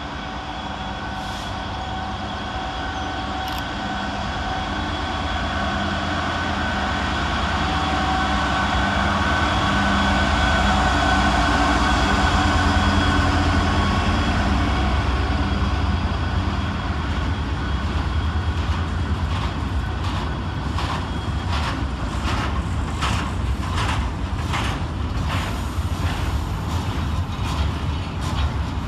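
Class 66 diesel-electric freight locomotive running past at low speed, its two-stroke V12 engine note growing louder to a peak about halfway through. In the last third the clickety-clack of the freight wagons' wheels over rail joints takes over as the train rolls by.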